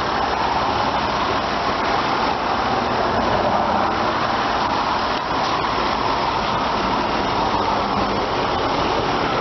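2002 Nissan Pathfinder's 3.5-litre V6 idling steadily with the hood open, an even, smooth running sound that the owner says sounds just like brand new.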